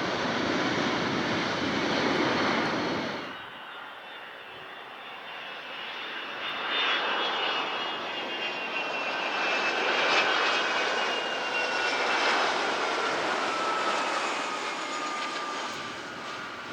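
Jet airliner's turbofan engines passing close by: a loud roar cuts off suddenly a few seconds in, then the jet noise builds again with high turbine whines that slowly fall in pitch as the aircraft goes past.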